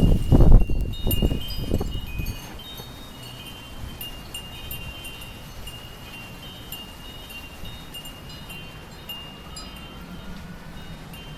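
Wind chimes ringing steadily in a windstorm, high overlapping tones struck again and again. In the first two seconds strong gusts rumble loudly on the microphone, then ease off.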